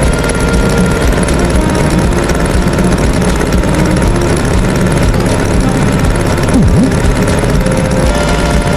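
Tractor engine running steadily with a low, rough chugging.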